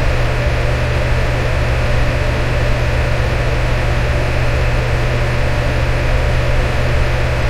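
Electric fan running steadily: an even rush of air over a strong low motor hum, with a faint steady tone a little higher up.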